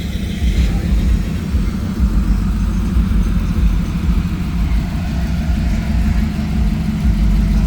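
High-horsepower show car's engine running at idle, a steady, low-pitched, loud sound.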